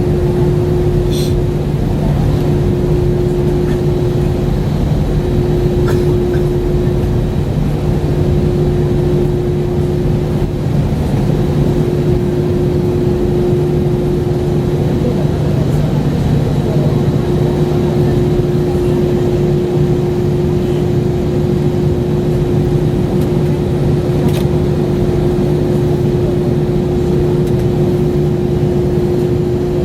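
Steady cabin noise inside an Airbus A320 on the ground after landing: a constant low rumble of engines and air system with a steady hum running through it.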